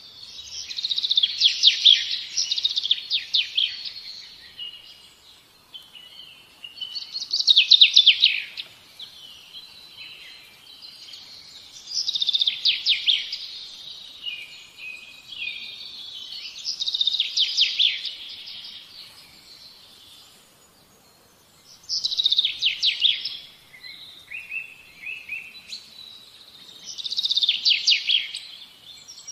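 Songbird singing: a trilled phrase about every five seconds, six in all, with softer chirps between them.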